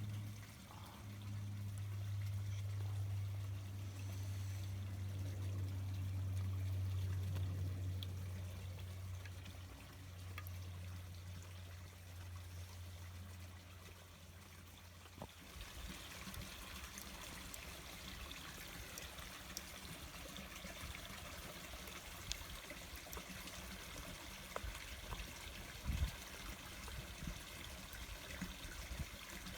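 Water trickling and running. A low steady hum sounds alongside it for about the first half and stops suddenly; after that the water carries on as a hiss with small scattered ticks.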